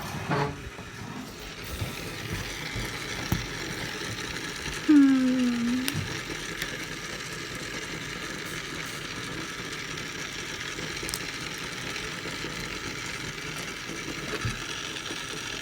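Small motorized egg-decorating spinner running steadily with a light clicking, ratchet-like rattle as it turns the egg. About five seconds in, a short vocal 'ooh' whose pitch dips and rises is the loudest moment.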